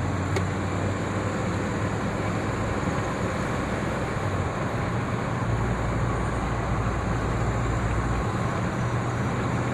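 A vehicle driving at steady speed: a continuous low engine drone with road and tyre noise, the deepest part of the drone shifting slightly about halfway through.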